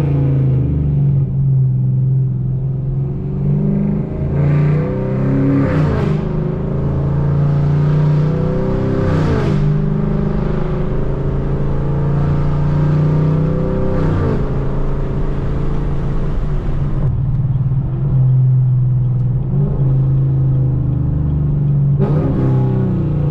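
Straight-piped Chevrolet Camaro V8 exhaust under way, a loud steady drone. Several times the revs climb and then fall away sharply, roughly every four to five seconds.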